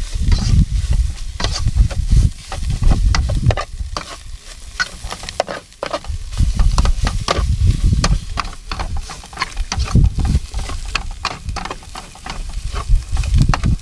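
Thai curry paste frying in oil in a pan, sizzling while a spatula stirs and scrapes it, with frequent sharp clicks of the spatula against the pan. A low rumble swells and fades throughout.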